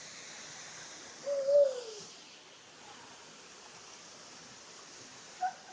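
Steady rush of stream water with one loud hooting call about a second and a half in, rising briefly and then sliding down in pitch. A faint short sound follows near the end.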